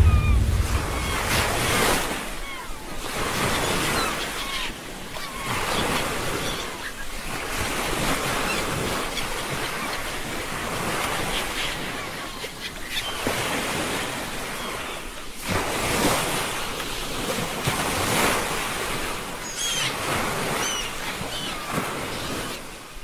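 Sea surf: waves washing in and breaking, a steady rush of noise that swells and ebbs every few seconds.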